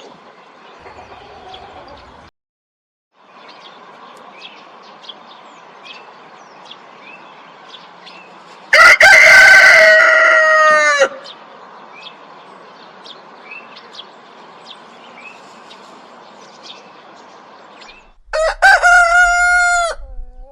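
A rooster crows twice, once about nine seconds in and again near the end. Each crow is a loud call of about two seconds with a falling tail. Between the crows there is faint, scattered chirping.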